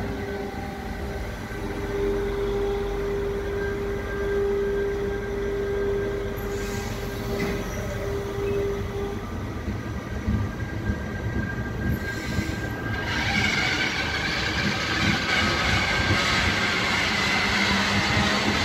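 Slow train of flat wagons and a passenger coach rolling past, with a steady hum in the first half and a few wheel knocks over rail joints. From about two-thirds in, the wheels squeal high and steadily.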